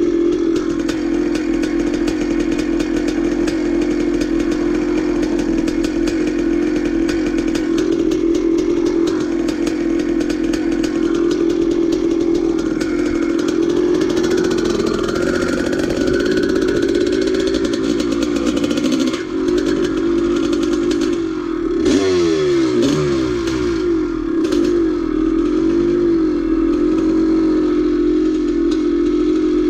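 Vintage dirt bike engine running steadily under way. About twenty seconds in it eases off briefly, then the engine note falls and rises a few times before settling back to a steady drone.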